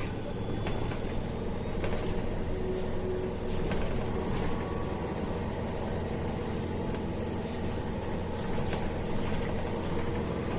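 MAN A21 city bus under way, heard from inside the cabin: a steady low engine and road drone with a few faint rattles and clicks.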